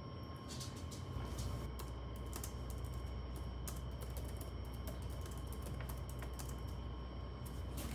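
Typing on a computer keyboard: quick, irregular key clicks, with a steady low hum under them.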